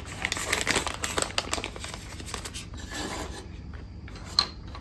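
A parts bag rustling and crinkling as it is handled and opened, with a sharp click near the end.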